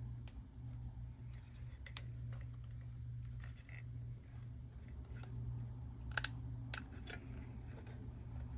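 Scattered light clicks and taps as the metal retaining tabs on a Uconnect screen housing are pressed down by hand, with a small cluster of sharper clicks about six to seven seconds in, over a steady low hum.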